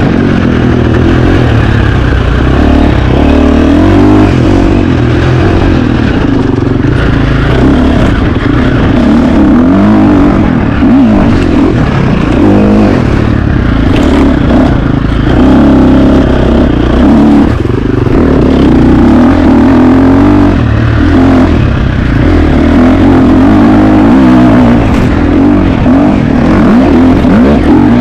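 2025 KTM 350 XC-F dirt bike's single-cylinder four-stroke engine, loud and close, revving up and down over and over as the throttle is opened and shut, with short drops in pitch every few seconds.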